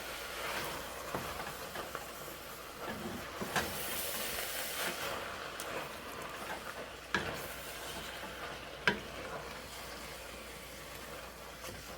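Chicken and vegetables sizzling in a pan as they are stirred, with a steady hiss and a few sharp knocks of the utensil against the pan, the loudest about nine seconds in.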